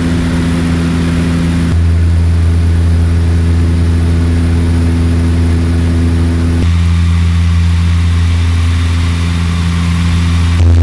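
Aircraft engine droning steadily in flight, a deep even hum with a thin high whine above it. The drone shifts abruptly about two seconds in and again about seven seconds in.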